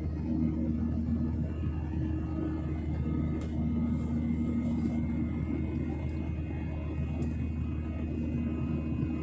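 Airliner engines and airflow making a steady low rumble with a faint high whine, as in a plane taking off or climbing. Two faint clicks come partway through.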